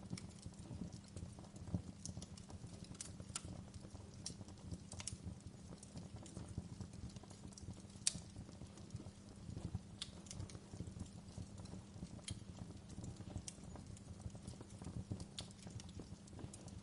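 Wood fire crackling: irregular sharp pops and snaps, the loudest about eight seconds in, over a low steady rumble of the flames.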